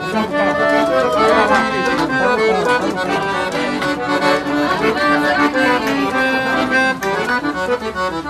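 Accordion (sanfona) playing a lively instrumental passage of northeastern Brazilian folk music, with quick runs of melody over held chords.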